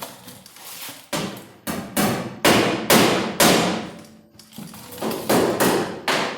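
A hammer striking the steel quarter panel about a dozen times, roughly two blows a second, each blow ringing out in the sheet metal, tapping the panel's bottom lip into place under the inner support beam.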